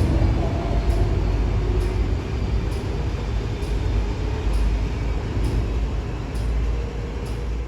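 MTR M-train (Kwun Tong Line electric multiple unit) running through a station without stopping: a steady low rumble of wheels on rail with a faint click about once a second, slowly fading.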